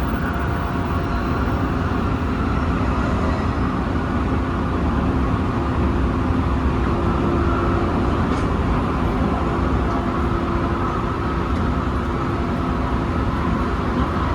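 Tsukuba Express train running at steady speed, heard from on board: an even rumble of wheels on rail with a faint steady hum over it.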